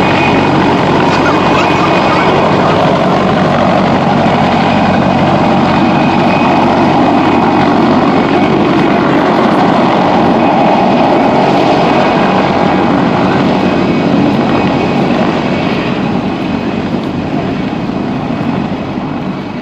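PZL Kania helicopter running loud and steady, its turbine engines and rotor blending into a constant whine and rush, fading away near the end.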